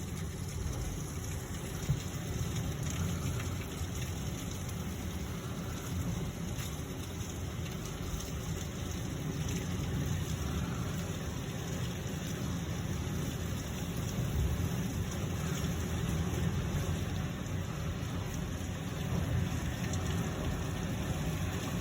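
Heavy rain pouring down steadily, with a constant low rumble beneath it. There is one sharp tap about two seconds in.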